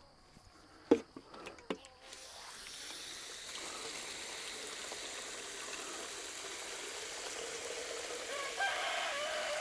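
A few sharp clicks as the garden hose is turned on, then water running from the hose with a steady hiss. Near the end a brief pitched sound joins in.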